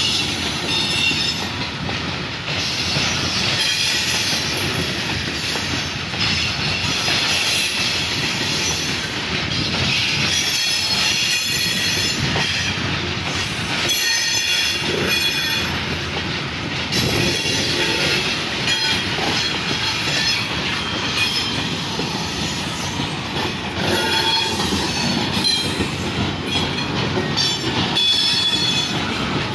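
Freight train of hopper wagons rolling past close by, its steel wheels rumbling and clattering on the track. A high-pitched squeal comes and goes on top of the rumble.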